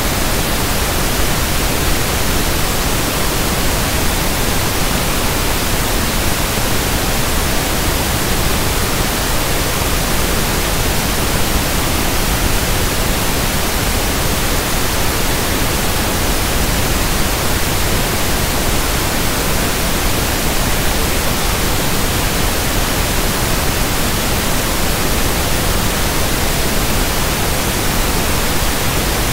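Steady synthetic pink noise (1/f noise): an even, unchanging hiss.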